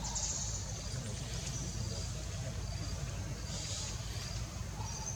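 Short high chirps of birds scattered over a steady low rumble.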